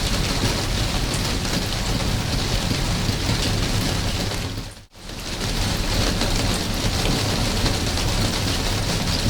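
Steady rain falling, an even hiss of many drops. About five seconds in it fades out almost to silence for a moment and swells back in.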